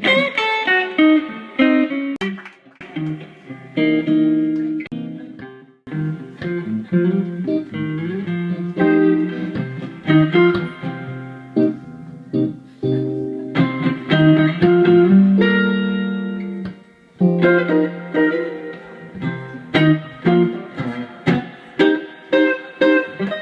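Guitar music: an instrumental intro of picked notes and chords, starting abruptly, without singing.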